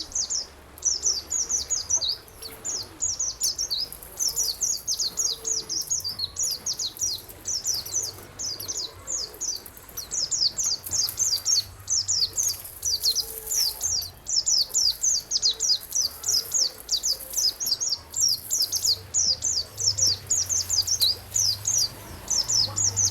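Recorded songbird song for masteran: a continuous rapid chatter of short, high, downward-slurred notes, several a second, with only brief pauses, over a faint hiss of running water.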